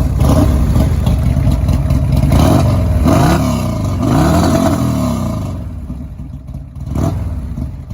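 Buell S3 Thunderbolt's air-cooled V-twin, breathing through a Remus exhaust can, running and revved twice around the middle, its pitch climbing and falling each time. It then settles back to a quieter idle, with a short blip of the throttle near the end.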